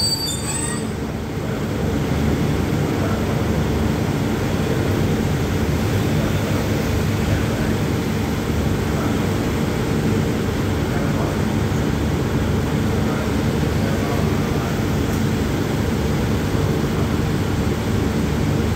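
Diesel-hauled express train standing at the platform with its engines idling: a steady low drone with a faint hum over it.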